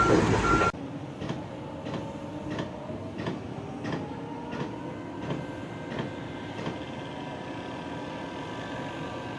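A vehicle's reversing beeper sounding over engine noise, cut off abruptly just under a second in. Then a quieter steady mechanical running sound with a faint whine slowly rising in pitch and a regular click about every two-thirds of a second.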